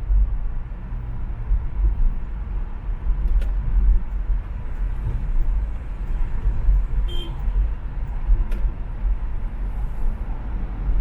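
Car driving on an expressway: a steady low rumble of engine and road noise, with a few sharp clicks and a brief high beep about seven seconds in.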